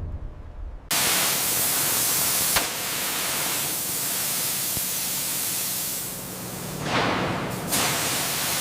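A loud, steady hiss that starts suddenly about a second in, after a low rumble, and swells briefly near the end.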